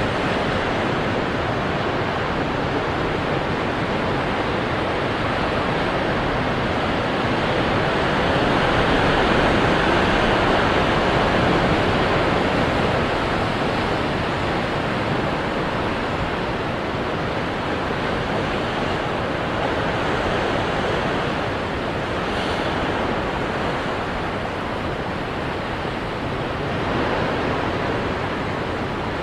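Ocean waves crashing onto rocks: a continuous wash of surf that swells louder about ten seconds in and eases off again.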